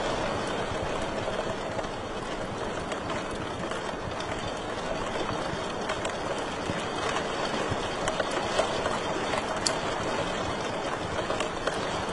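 Wood fire burning in a fireplace: a steady rushing hiss with scattered sharp crackles and pops, a few louder ones in the second half.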